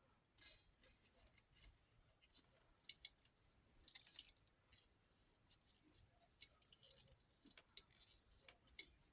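Faint irregular clicks and light clinks from small objects being handled, with one sharper click about four seconds in.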